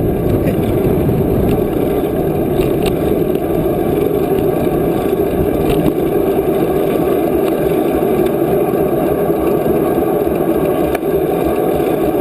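Steady wind rushing over the microphone and tyre noise while riding a bicycle.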